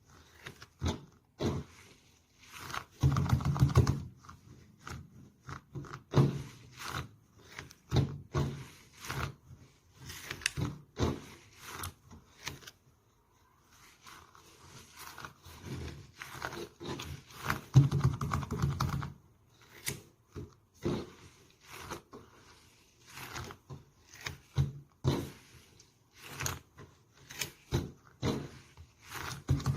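Slime being squeezed and poked by hand: irregular sticky clicks and crackles, with longer, louder stretches about three seconds in and again just past the middle.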